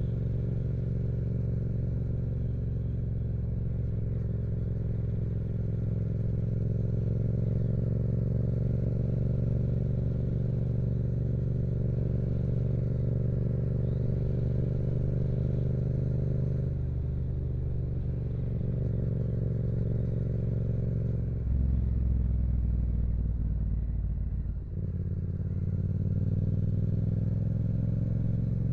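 A 2016 Yamaha MT-07's parallel-twin engine running through a Yoshimura aftermarket exhaust while the bike is ridden. The revs hold mostly steady, the note shifts a few times in the second half, and there is a brief drop in level about three-quarters through.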